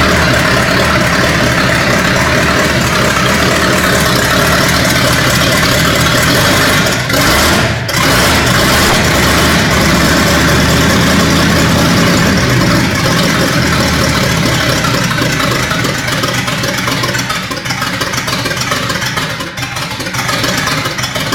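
1959 Cadillac Sedan DeVille's 390 cubic-inch V8 running steadily. It dips for a moment about a third of the way through and runs a little quieter in the last several seconds.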